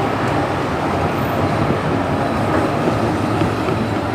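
Steady rumble of road traffic, with vehicles going by.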